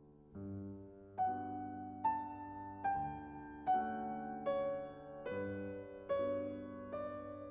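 Slow, gentle piano music: a melody of single notes struck about every 0.8 seconds, each left to ring out over sustained low chords.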